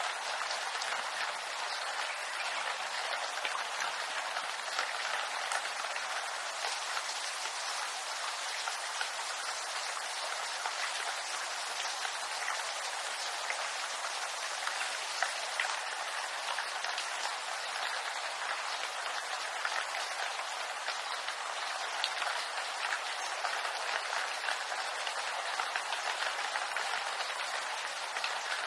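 Steady rain falling on bamboo leaves, a dense continuous patter of many small drops.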